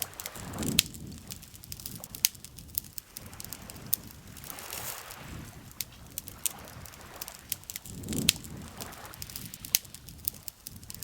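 Wood campfire crackling, with irregular sharp pops and snaps, over soft swells of lake water lapping every few seconds.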